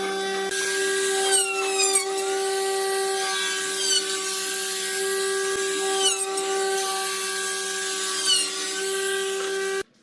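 Electric power tool motor running steadily, with a brief dip and falling whine about every two seconds as the tool takes load. It cuts off suddenly near the end.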